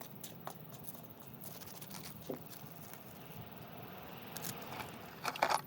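Metal tools and engine parts being handled, with light clicks and scrapes and a burst of louder metallic clinking near the end.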